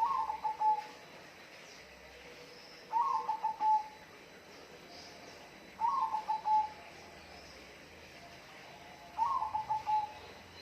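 A bird calling four times, about every three seconds. Each call is a short, stuttering run of notes that settles slightly lower in pitch and lasts under a second.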